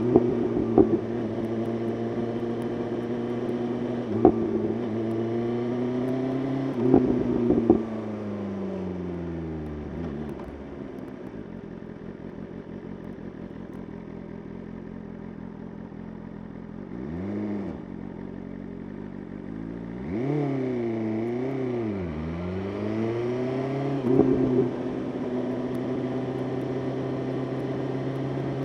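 BMW S1000RR inline-four engine heard from on board at highway speed: steady running, then the pitch falls away as the throttle rolls off. After a quieter low stretch, a quick rev rises and falls, followed by several rising and falling revs, before it settles back to steady cruising. Sharp short pops come a few times along the way.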